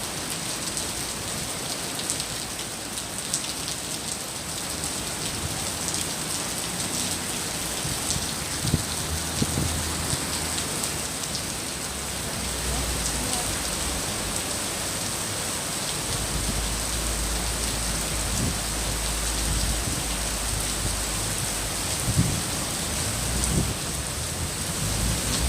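Rain falling steadily, a dense even hiss with scattered drop ticks and a few louder knocks. A low rumble runs underneath for several seconds in the middle.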